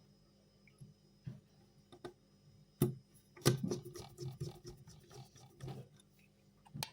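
Faint, irregular clicks and light knocks of a screwdriver and small screws as the screws are refitted on a graphics card, busiest through the middle, with a sharp click near the end.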